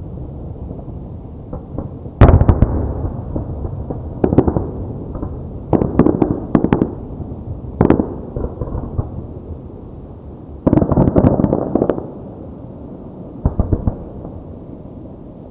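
Aerial fireworks shells bursting: a series of sharp bangs with a rolling rumble between them, and a dense run of rapid bangs about eleven seconds in.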